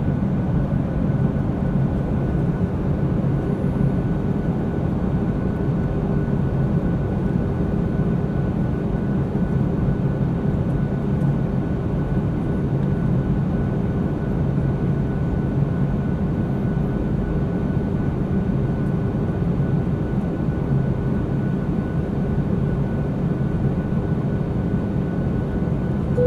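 Airliner cabin in flight: a steady, unbroken rush of engine and air noise, heaviest in the low range, with a constant low hum and a faint steady whine above it.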